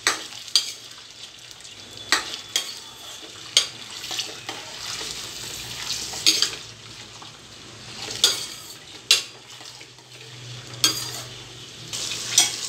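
Paneer cubes sizzling in hot oil in a stainless steel kadhai, with a steady high hiss. A metal spatula clinks and scrapes against the pan every second or two as the cubes are turned.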